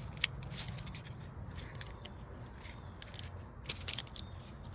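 Small hand tools and their packaging being handled, with scattered light clicks and scrapes, including a short run of clicks near the end.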